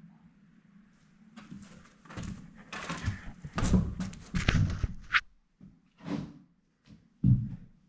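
Irregular knocks, scrapes and thuds of objects being handled, with a short squeak about five seconds in.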